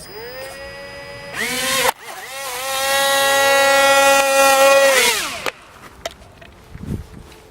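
Brushed electric motors of the XK X420 RC VTOL plane whining as their propellers are throttled up: the pitch rises, steps up louder, cuts off abruptly, then spins up again, holds steady for a few seconds and winds down near the end.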